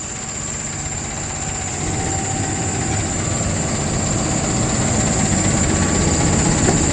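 Cummins diesel engine of a Freightliner truck running steadily at idle, gradually getting louder.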